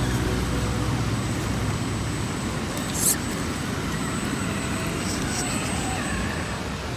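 Electric RC scale crawler truck driving through mud: a steady running hiss with a faint high electric whine. There is a sharp click about three seconds in, and a faint wavering whine between about four and six and a half seconds.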